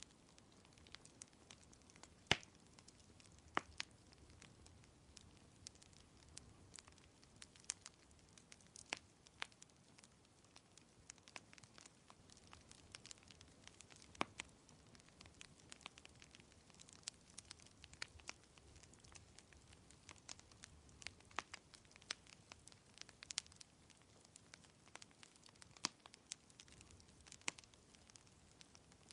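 Wood fire crackling in a fireplace: scattered, irregular sharp pops, a few louder than the rest, the loudest about two seconds in, over a faint steady hiss.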